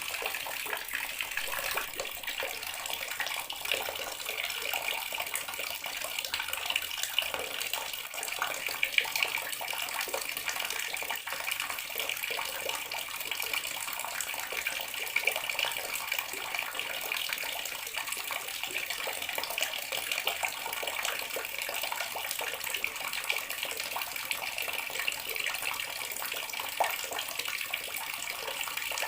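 Water tap running steadily into a bathroom sink, a continuous splashing stream.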